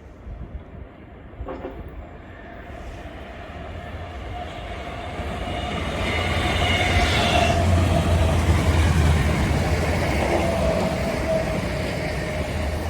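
A train running past the platform, growing louder to a peak about seven to nine seconds in and then fading. A steady whine runs over the rumble of the wheels on the rails.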